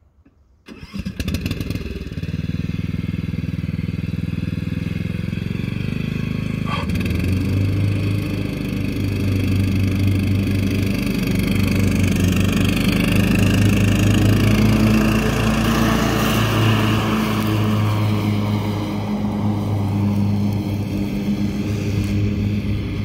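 Cub Cadet LT42 riding lawn mower's engine starting about a second in, then running steadily. A single sharp click about seven seconds in.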